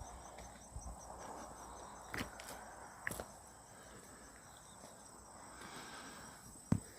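Insects keep up a steady high trill, with a faster pulsing chirp that fades out about halfway through, while footsteps rustle through leaf litter with a few sharp snaps, the loudest near the end.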